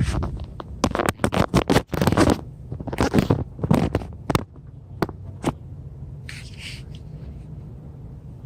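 Dodge Dakota R/T's 5.9-litre V8 running with a steady low hum. For the first few seconds it is covered by loud, irregular scraping and clicking handling noises close to the microphone.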